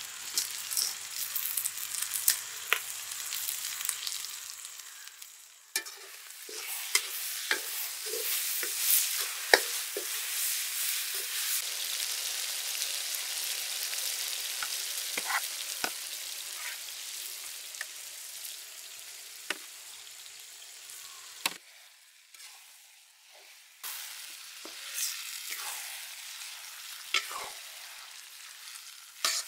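Hot oil with onion, tomato and spices sizzling in a pan as pieces of country chicken are scraped in and stirred, with short knocks and scrapes of the utensil against the pan. The sizzling swells about six seconds in and dies down in the last third.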